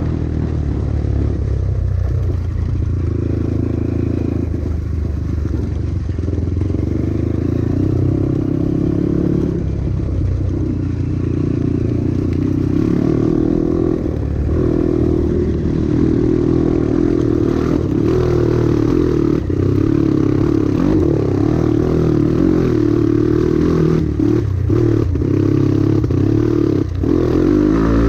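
Dirt bike engine running and revving, its pitch rising and falling with the throttle. Some clatter and a few sharp knocks come near the end.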